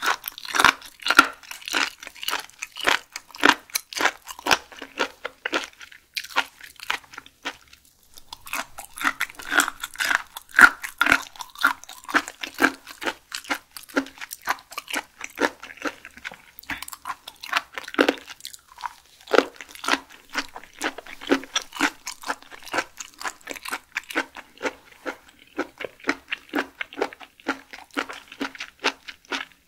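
Close-miked chewing and biting of raw seafood such as whelk and clam: a rapid run of crisp wet clicks and smacks from the mouth, with a short pause about a quarter of the way in.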